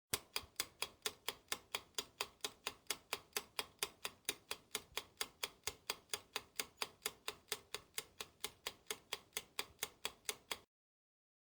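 Clock ticking sound effect: even, sharp ticks about four a second, cutting off suddenly near the end.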